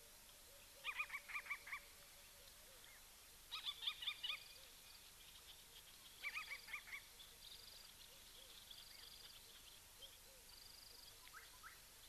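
Birds calling in three short bursts of quick repeated notes, about a second each, spaced a few seconds apart. Under them a faint high trill repeats every second or two.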